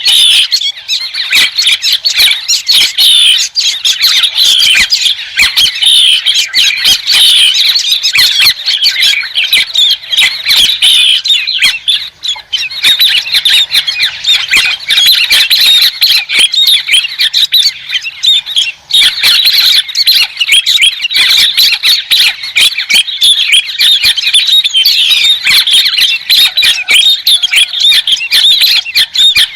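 Loud, continuous chattering and squawking of birds called 'chim đầu trắng' (white-headed bird), rapid calls overlapping without pause except for brief lulls about twelve and eighteen seconds in.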